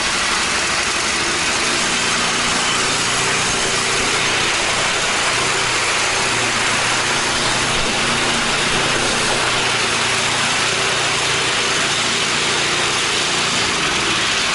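Troy-Bilt Squall snowblower's 208 cc gas engine running steadily on choke, moments after a cold electric start.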